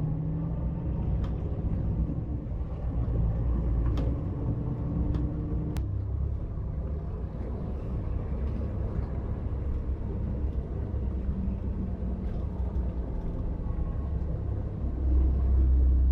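Bus on the move: a steady low engine and road rumble with a few sharp clicks of rattle. It grows louder near the end.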